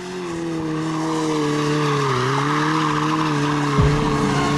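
Motorcycle engine held at high, steady revs, fading in at the start and dipping briefly in pitch about two seconds in, with a sharp thump near the end.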